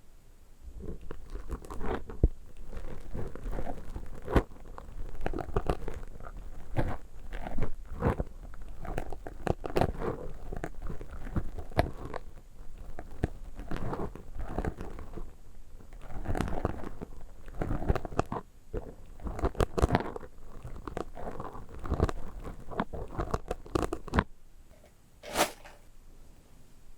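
Close-miked ASMR trigger sounds: an object being crunched and crinkled in the hands, giving dense, irregular crackles and clicks with short pauses. These stop about 24 seconds in, and a single short sound follows near the end.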